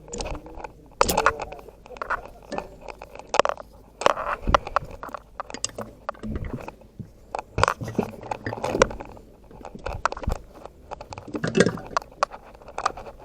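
Irregular clicks, clanks and scrapes of tools and metal parts being handled during a box-truck tire change.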